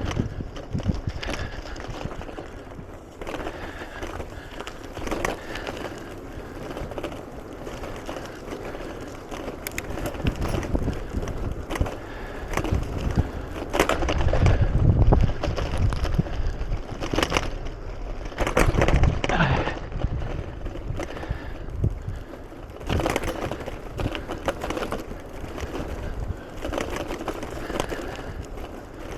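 Bicycle rolling along a rough trail: tyre noise with frequent irregular rattles and knocks from the bike over bumps, and stronger low rumbling stretches about halfway through.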